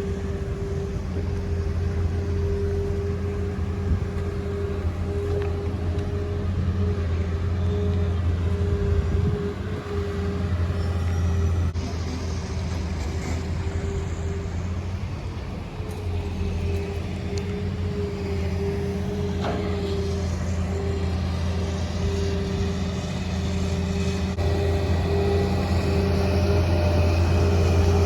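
An engine running steadily at an even speed, a constant low hum that grows a little louder near the end.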